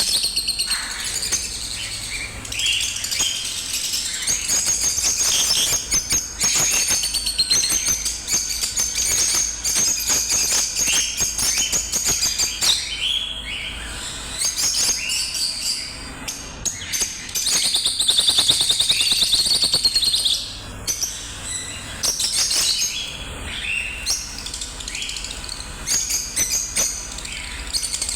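A pair of lovebirds chattering: rapid, high-pitched chirps and twitters that run almost without pause.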